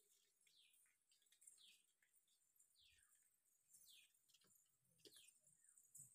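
Faint bird calls: short falling chirps repeated roughly once a second.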